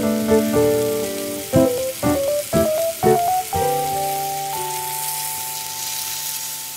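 Beef, potato and onion sizzling in a stainless steel pot, the hiss growing brighter near the end as water is poured onto the hot food. Light background music with plucked notes plays over it throughout.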